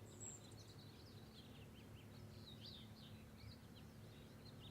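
Faint birds chirping, many quick short chirps in a continuous chatter, over a low steady hum.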